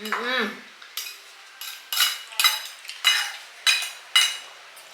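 Spoon and fork clinking and scraping against a plate in a quick series of ringing taps while eating. A short cat meow sounds at the very start.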